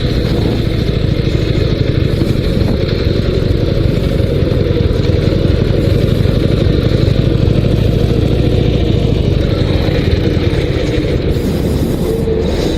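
Dnepr 16 sidecar motorcycle's 650 cc boxer twin engine running steadily.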